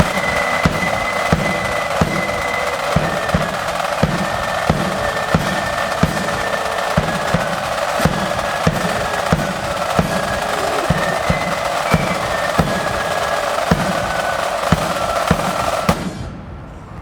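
Marching flute band playing: flutes carry the melody over continuous snare drum rolls and a steady bass drum beat. The band stops together about a second before the end.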